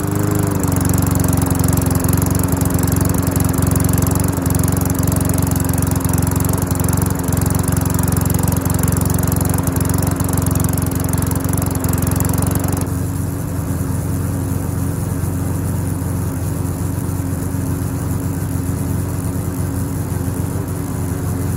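Small single-cylinder engine of an MTD Yard Works walk-behind lawnmower catching and settling into a steady run. Its sound dulls a little about 13 seconds in.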